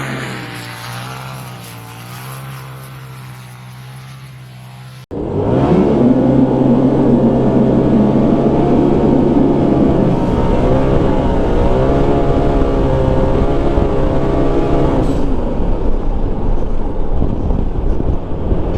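Engine sound fades away over the first few seconds. Then, after an abrupt cut about five seconds in, the 2020 Polaris RZR Pro XP's turbocharged engine runs loud and close, breathing through a catless sport muffler, its pitch wavering up and down at high revs under an aggressive Stage 3 tune with almost no traction on snow. In the last few seconds the steady engine tone gives way to a rougher rushing noise.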